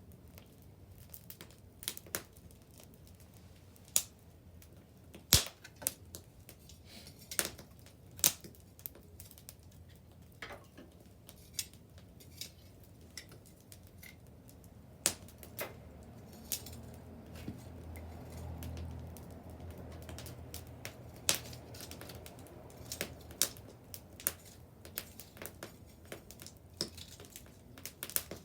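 Wood bonfire crackling, with irregular sharp pops, a few much louder than the rest. A low rumble swells and fades in the middle.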